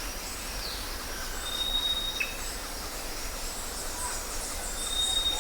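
Birds calling outdoors: thin, high whistled notes, each held about half a second, mixed with short chirps and a quick falling note. The chirping grows busier near the end.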